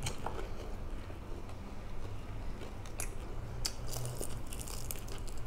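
A person chewing and biting crispy fried galunggong close to the microphone, with a few short, sharp crunches.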